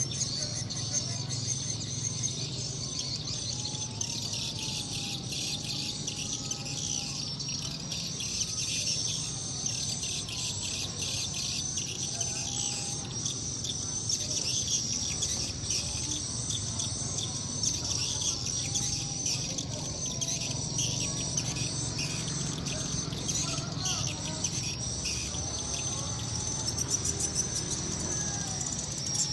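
Dense, continuous high-pitched twittering of edible-nest swiftlets, the lure call that a swiftlet house plays to draw the birds home at dusk, over a steady low hum.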